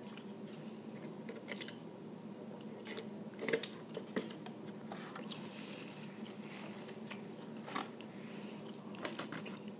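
A person chewing seafood, with scattered soft clicks and smacks from the mouth.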